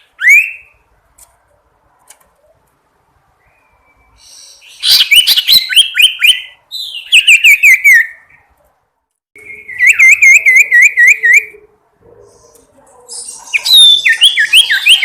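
Sirtu songbird calling: a short rising whistle, then four bursts of quick, repeated chirping notes separated by short pauses, the call used to challenge a rival bird.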